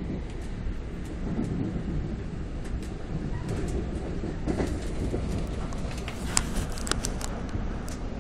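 NJ Transit commuter train running at speed, heard from inside the coach: a steady low rumble with scattered sharp clicks, the loudest around six to seven seconds in.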